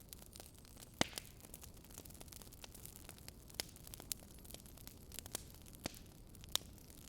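Campfire crackling: scattered sharp pops and snaps over a soft, steady low hiss. The two biggest pops come about a second in and near the end.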